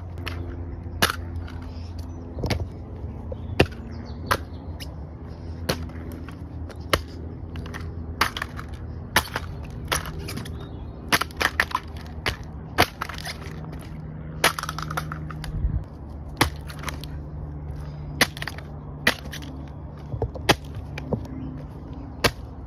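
Irregular sharp taps and clicks, about one or two a second, from hands handling and tapping a pair of Nike sneakers, over a steady low hum.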